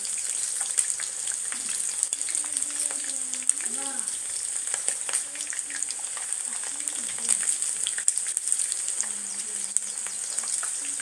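Chicken pieces deep frying in hot oil: a steady sizzle dotted with frequent small crackles and pops.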